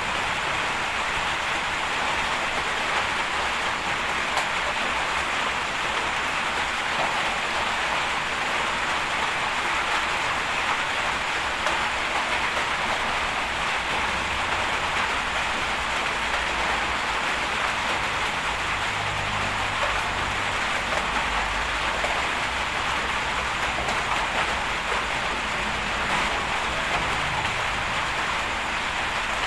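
Steady rushing hiss throughout, with the low hum of a bulldozer's diesel engine rising underneath at times.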